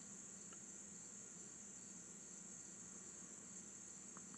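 Faint, steady high-pitched chorus of crickets, unbroken throughout, with one or two tiny clicks near the end.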